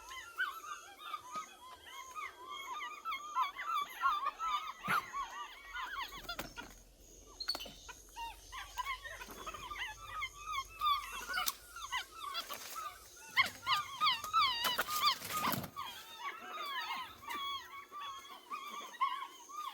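A chorus of high, squeaky chirping and whimper-like animal calls, many voices overlapping almost without pause, with a few sharp knocks and a louder rustling burst about fifteen seconds in.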